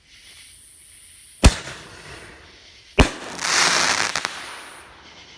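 Aerial canister shell from a consumer firework mortar kit exploding overhead: two sharp bangs about a second and a half apart, then about a second of dense crackle from the shell's crackling stars.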